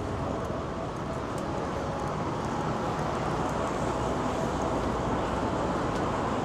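Busy city street ambience: a steady wash of road traffic and crowd noise, getting slightly louder partway through.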